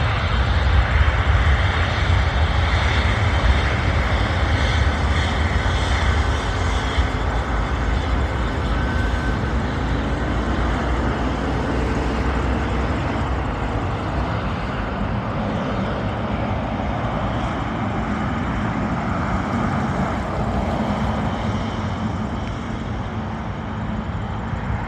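Boeing 777 jet engines at takeoff thrust, a loud rumbling roar whose deep low end is heaviest for the first several seconds and then gradually eases as the airliner moves away.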